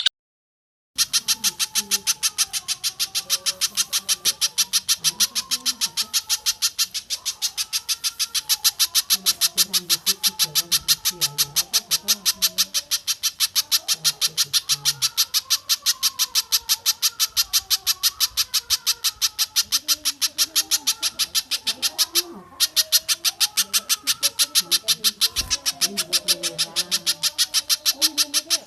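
Spiderhunter calling in a fast, unbroken series of sharp, high chip notes, about five a second, starting about a second in with one brief break near the end. Chickens cluck faintly beneath.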